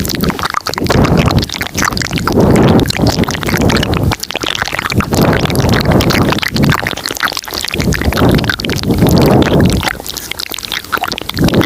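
Layered close-microphone ASMR mouth sounds: wet clicks and smacks over swelling, rumbling mouth noises that come and go every second or so.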